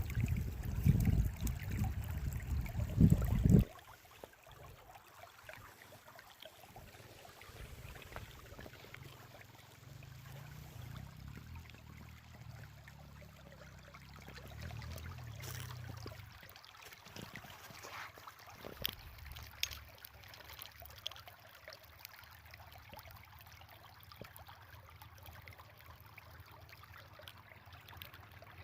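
Small meltwater brook trickling, faint and steady. Loud low buffeting noise on the microphone covers the first three and a half seconds, then stops abruptly.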